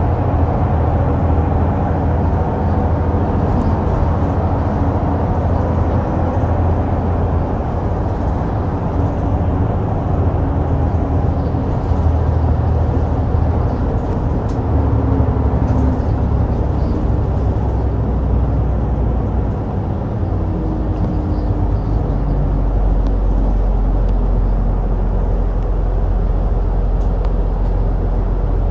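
Route bus heard from inside the cabin: diesel engine running with road noise. About two-thirds of the way in the engine note drops and settles into a lower, steady hum.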